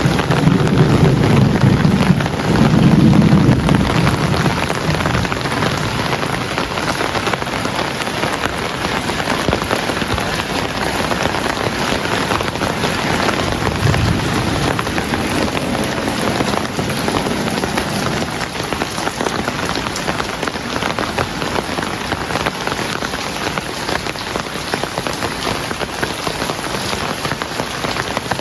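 Heavy rain pouring steadily onto surfaces. A low rumble of thunder fades out over the first few seconds, and a brief low rumble comes again about halfway through.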